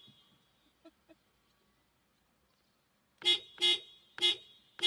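Four short honks in a row, about half a second apart, starting a little past the middle, after two faint clicks.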